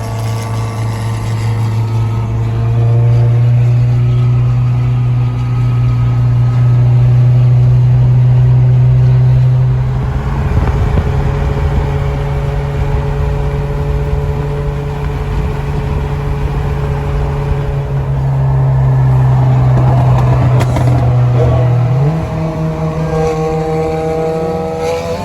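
Car engine running at a steady cruise, a loud constant drone with a rushing noise added about halfway through. Near the end the pitch steps up as the engine revs higher.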